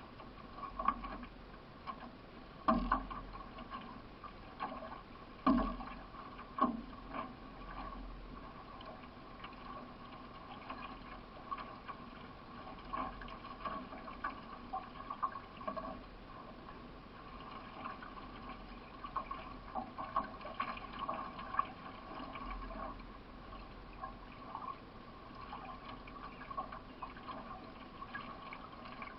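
Paddle strokes of a solo racing canoe: the blade dipping and pulling through the water in short, irregular splashes every second or two, over a steady wash of water.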